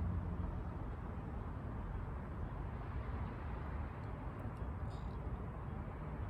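Steady low background rumble and hiss with no distinct sound events, a pause in speech.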